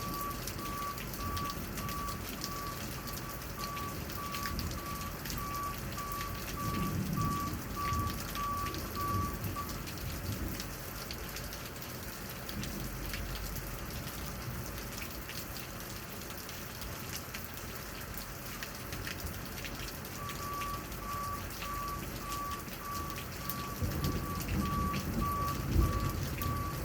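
Steady rain falling, with many drops ticking on a surface. A backup alarm beeps steadily, about two beeps a second, for the first ten seconds and again from about twenty seconds in, and low rumbles swell up twice, the louder one near the end.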